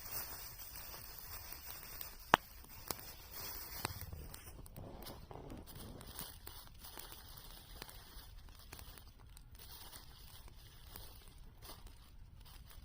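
Crinkling and rustling of food wrapping being handled, with one sharp click about two and a half seconds in and two fainter clicks within the next second and a half.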